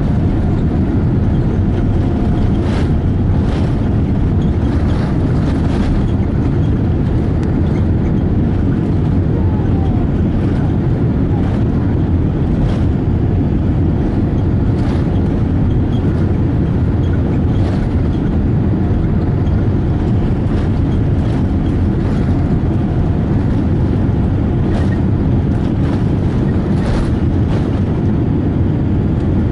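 Steady, loud rumble of a Boeing 787-8 heard from inside the passenger cabin, engine and airflow noise, with a few faint clicks.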